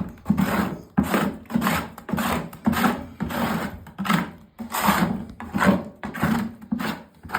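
Rhythmic rasping strokes of a hand tool worked back and forth, about two strokes a second.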